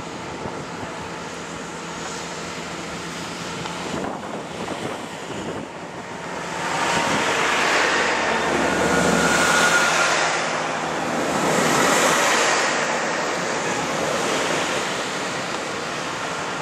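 Class 166 Networker Turbo diesel multiple unit passing along the platform: a rushing noise of wheels on rail and moving air that swells about halfway through, stays loudest for several seconds as the coaches go by with a brief whine in the middle, then eases off.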